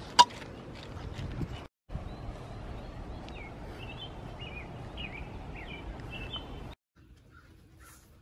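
A dog crunching food from a bowl, with a sharp click just after the start. After about two seconds comes steady outdoor background noise with a small bird chirping repeatedly; it turns quieter near the end.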